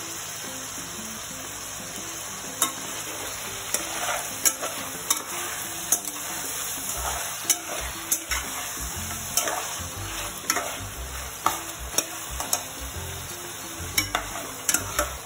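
Chicken pieces with sliced onions and green chillies sizzling in hot oil in a pan. A spatula stirs them, clicking and scraping against the pan about every half second from a couple of seconds in.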